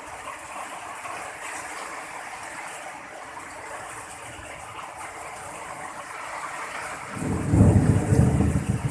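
Heavy rain pouring steadily, then about seven seconds in a loud, low rumble of thunder lasting about two seconds.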